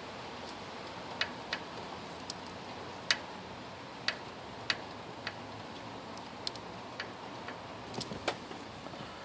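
About a dozen sharp clicks and taps at uneven intervals over a steady faint hiss.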